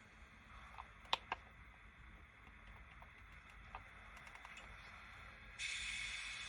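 Sound decoder of a Z-scale model of an ER20 diesel locomotive playing through its tiny speaker: two sharp clicks about a second in and a few faint ticks, then a sudden hiss near the end that slowly fades.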